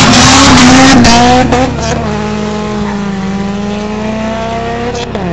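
Two drag-racing cars, a 5.0 V8 and a turbocharged Integra four-cylinder, accelerating hard past at close range. Their engine notes climb through the gears, then turn quieter and keep rising as the cars pull away, with a gear change about three seconds in.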